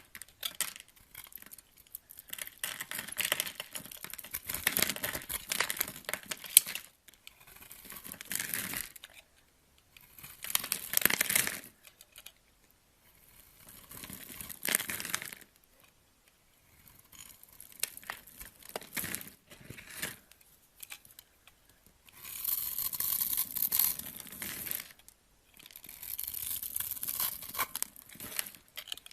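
A blade cutting and scraping through a bar of soap, stroke after stroke, each cut a crisp crackling scrape lasting a second or two with short pauses between.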